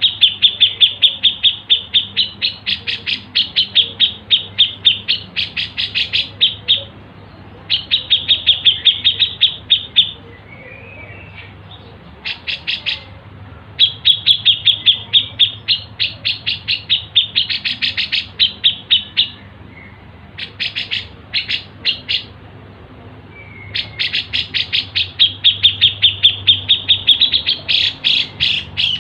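Songbird chirping rapidly, about five even chirps a second, in bouts of a few seconds broken by short pauses. It is a recorded masteran track for tutoring cage birds.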